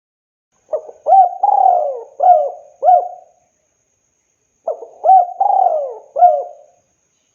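Spotted dove cooing: two phrases of about five rolling coo notes each, the first about a second in and the second about two seconds after it.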